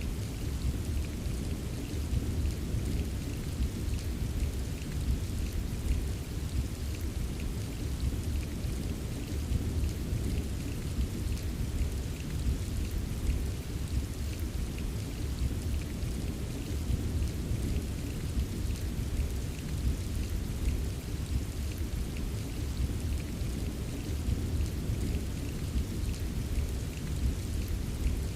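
Steady rain falling, with small drop ticks, over a continuous low rumble of distant rolling thunder that never breaks into a clap.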